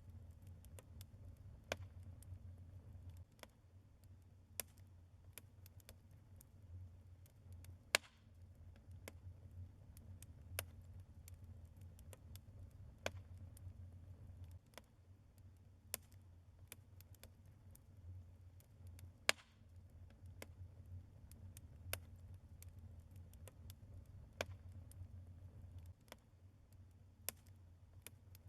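Wood logs burning in a fireplace, crackling with irregular sharp pops over a low steady rumble; the loudest pops come about eight seconds in and again around nineteen seconds.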